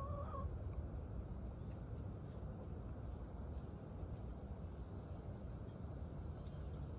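Insects chirring steadily in one constant high-pitched drone, with a short soft call right at the start and low outdoor rumble underneath.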